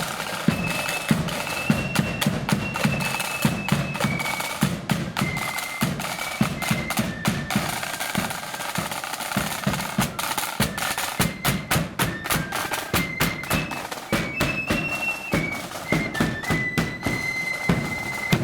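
A marching band playing: a high melody line over rapid snare drumming and heavy bass drum beats.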